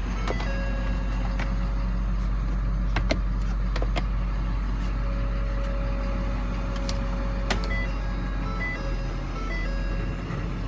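Ford F-450 Super Duty's 6.7-litre Power Stroke V8 diesel idling steadily, with a few sharp clicks over it.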